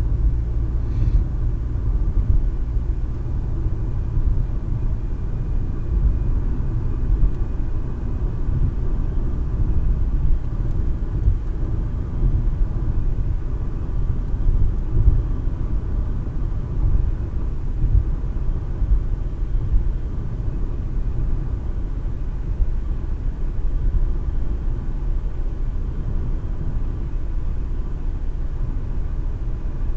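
Steady low rumble of a car under way, heard from inside the cabin: road and engine noise picked up by the windshield dash cam's microphone.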